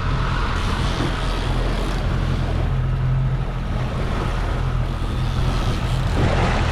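Boat engine running steadily at trolling speed, a constant low drone under a wash of wind and water noise.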